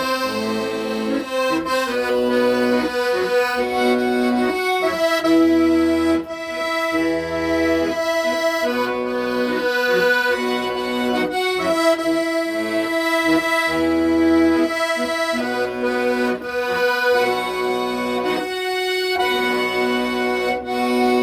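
Accordion playing a melody in held reedy notes over lower bass notes, with a brief pause about nineteen seconds in.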